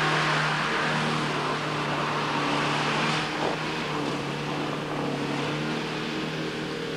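Range Rover Turbo D's 2.4-litre four-cylinder turbodiesel engine running at steady revs under load as the car drives through deep mud.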